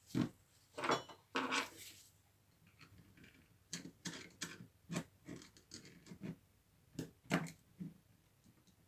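A series of irregular knocks and clicks of hard parts being handled and set down, the loudest three in the first two seconds, one of them with a brief metallic ring.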